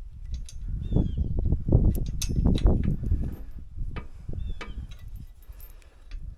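Irregular low rumbling noise with scattered knocks and clicks, while a small bird gives short falling chirps a few times, about a second in and again later.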